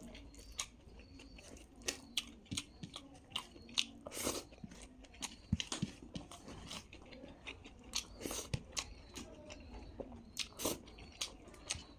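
A person chewing and biting food close to the microphone, with many short mouth clicks and smacks at an irregular pace.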